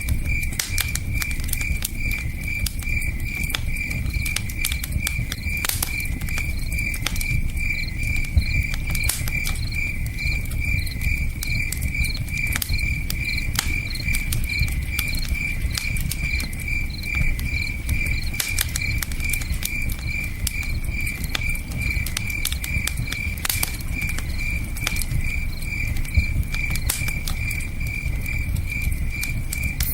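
Campfire crackling with scattered sharp pops, over a cricket chirping in a steady, evenly spaced high-pitched pulse and a continuous low rushing of a river.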